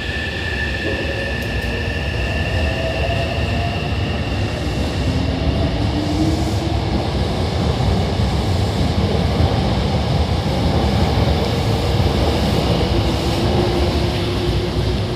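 Hankyu 9000 series electric train accelerating out of the station, its cars rolling past with wheel and running noise growing louder. The motor whine rises in pitch as it picks up speed, and a pair of high steady tones fades out in the first few seconds.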